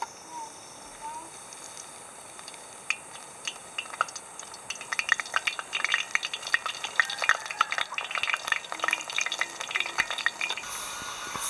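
A utensil stirring and scraping food in a pan: scattered clicks about three seconds in, becoming a quick, dense clatter from about five seconds and stopping near the end, over a steady high hiss.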